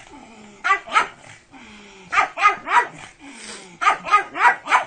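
Pug barking in quick bursts: two barks, then three, then four near the end, with lower sliding whines between the bursts.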